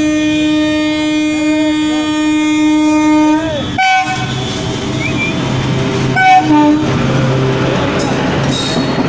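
Indian Railways WAP-4 electric locomotive sounding a long steady horn blast as it approaches. The horn cuts off about three and a half seconds in. The locomotive and its coaches then pass close by with a rumble of wheels on the rails, loudest about six seconds in.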